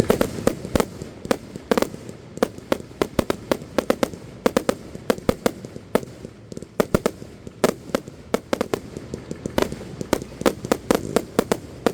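Fireworks going off: a long run of sharp cracks and pops, irregular and often in rapid clusters, like firecrackers or crackling shells.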